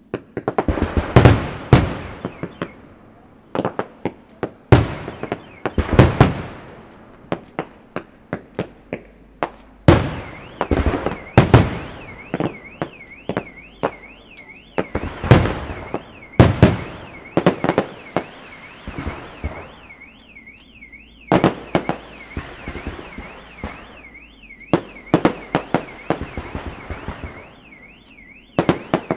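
Aerial firework shells bursting overhead: dozens of sharp bangs in quick clusters, with crackling stars between them. From about halfway in, a car alarm warbles up and down about twice a second under the bangs.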